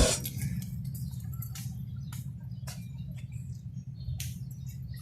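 Small birds chirping and twittering in short, scattered calls, with a few sharp clicks, over a steady low rumble.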